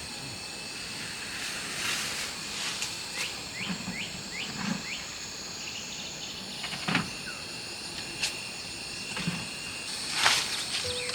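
Countryside ambience: insects trilling steadily in several high, thin tones, a bird giving a quick run of five short falling chirps a few seconds in, and a few sharp knocks or taps, the loudest about ten seconds in.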